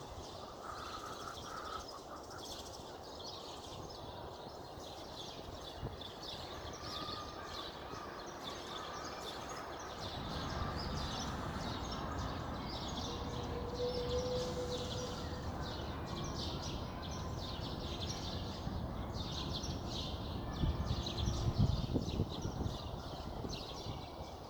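Small birds chirping and twittering many times over, short high calls, over a low steady background rumble that gets louder about ten seconds in.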